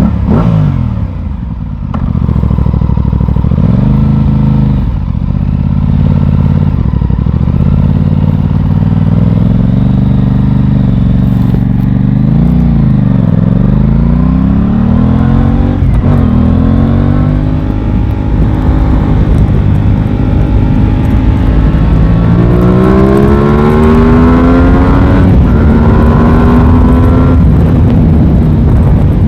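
Aprilia Tuono 660's parallel-twin engine under way, its revs rising and dropping again and again as it accelerates and shifts through the gears. Near the end it makes a long climb in revs.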